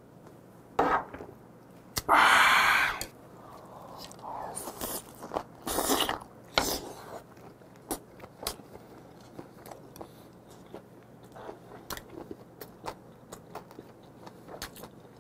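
Close-miked eating of swimming crab: chewing, sucking and crunching on the shell and innards, heard as many short wet clicks and smacks. A loud breathy exhale comes about two seconds in.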